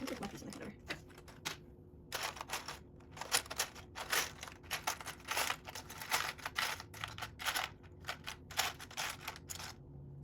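Loose plastic Lego bricks clicking and clattering as hands rummage through a pile of pieces, an irregular run of small rattles with a short pause about two seconds in.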